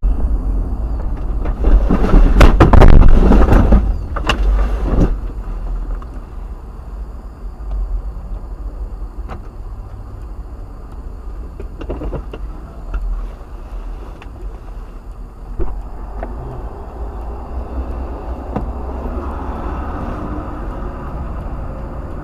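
Car road and engine noise picked up by a dash camera, with a loud crash, a cluster of impacts and clatter, from about two to four seconds in. It is followed by a steady low rumble with a few isolated knocks.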